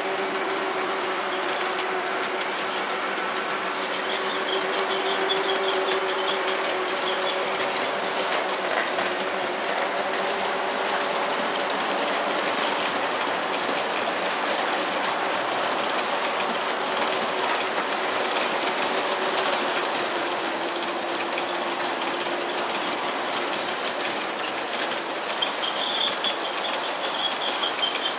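LGB G-scale model train running steadily on its track: the Alco diesel locomotive's drive hums while the wheels of the locomotive and its cars roll and rattle over the rails.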